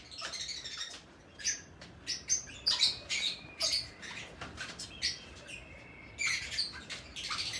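Several small pet birds chirping in quick, overlapping short calls, with busier bursts of chatter about a third of the way in and again near the end.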